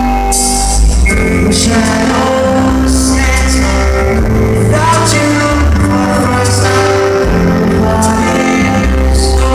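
Live pop ballad: a male lead vocal sung over a band with guitar and bass, captured in a large arena with rough, crowd-recorded sound.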